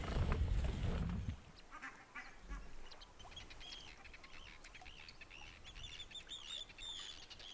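Wind noise on the microphone for about the first second, cutting off sharply. Then a flock of waterbirds by the sea calls over and over in short, high, arched calls, growing busier toward the end.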